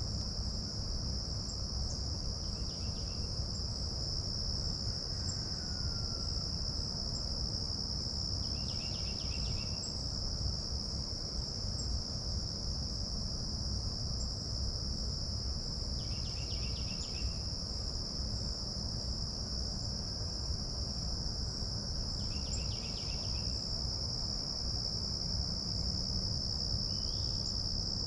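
Insects shrilling in one steady, unbroken high tone, with a short burst of rapid repeated notes every six seconds or so. A low steady rumble runs underneath.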